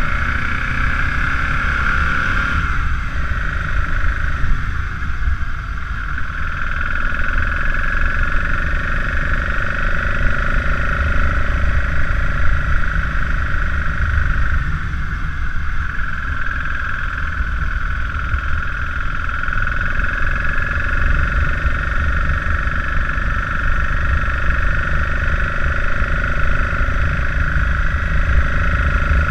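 BMW F650GS motorcycle engine running under way, with a steady low wind rumble on the microphone. The engine note breaks and dips briefly about three seconds in and again around fifteen seconds in, then carries on steadily.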